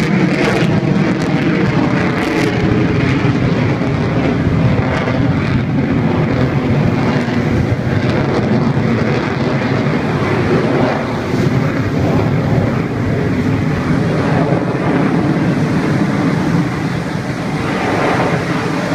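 Loud, steady jet noise from an F-22 Raptor's twin Pratt & Whitney F119 turbofan engines in flight.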